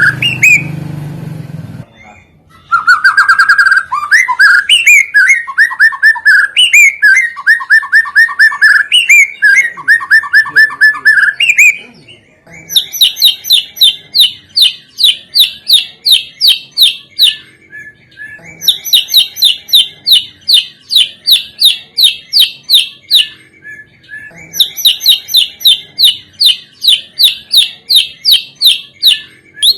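A songbird singing loudly: about ten seconds of varied whistled phrases, many falling in pitch, then three bouts of fast, evenly repeated high chirps at about three a second. Each bout lasts around five seconds, with short pauses between.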